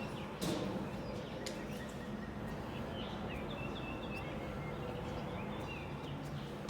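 Small birds chirping in short, scattered calls over a steady outdoor background hiss, with one brief loud burst of noise about half a second in.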